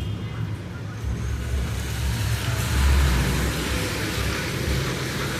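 Street traffic: a vehicle rumbling low, swelling about three seconds in, with a hiss building from about two seconds in.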